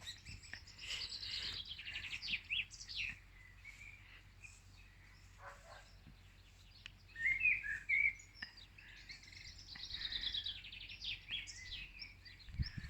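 Songbirds singing: a fast, high trill about a second in and again after about ten seconds, with shorter chirping notes in between.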